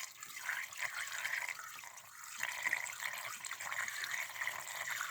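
Antifreeze coolant being poured into a truck's cooling system: a continuous, uneven pour of liquid.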